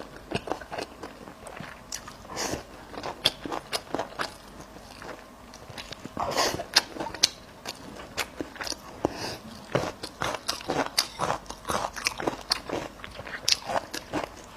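A person chewing and biting food close to the microphone, with many short sharp clicks and smacks and a few longer mouth noises.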